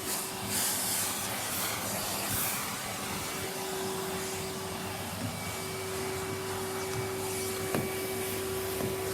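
Numatic Henry cylinder vacuum cleaner running steadily, a constant airy hiss over one steady hum note, with a single light tap about three-quarters of the way through.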